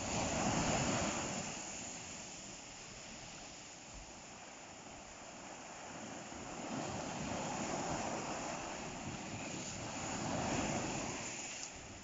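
Ocean surf breaking and washing up the shore, a steady rush that swells and fades three times in slow surges, loudest near the start.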